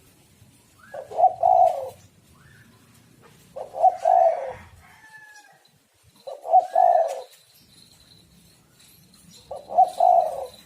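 Spotted dove (tekukur) cooing: a low, rolling two-part coo phrase repeated four times, about every three seconds, with faint higher chirps between the phrases.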